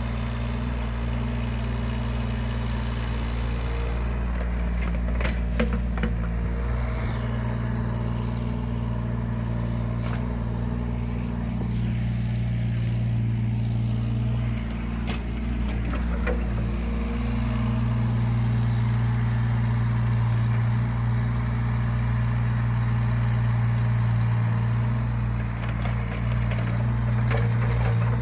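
Yanmar ViO17 mini excavator's diesel engine running steadily, with a few sharp knocks in the first half and the engine working a little harder over the second half.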